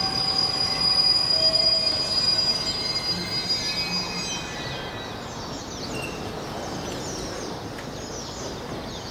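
An electric train coming to a stop at a station platform, with a steady electric whine and squealing wheels and brakes. The whine fades out about halfway through, leaving the quieter running hum of standing trains with scattered high squeals.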